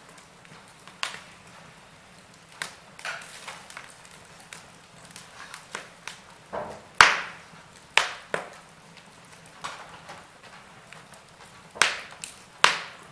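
Burning wood fire crackling, with irregular sharp pops over a faint hiss; the loudest pop comes about seven seconds in, and a few more come near the end.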